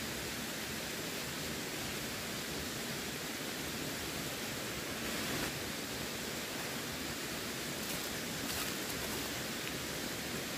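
Running water rushing steadily, an even unbroken hiss with no distinct splashes.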